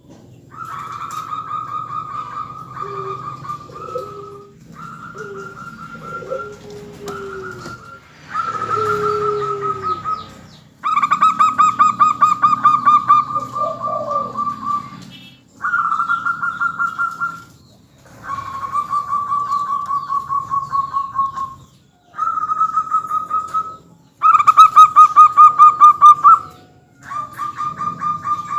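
Zebra doves (perkutut) singing: a run of cooing phrases, each a rapid pulsing trill lasting two to four seconds, separated by short pauses. The loudest phrase comes near the end.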